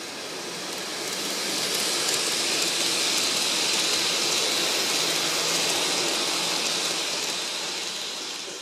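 N-gauge model KiHa 81 series diesel railcar train passing, its small motor whining and its wheels rushing on the track. It grows louder, holds, then fades away near the end.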